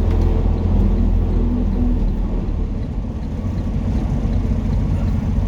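Semi-truck diesel engine running at low speed, heard from inside the cab: a steady low rumble.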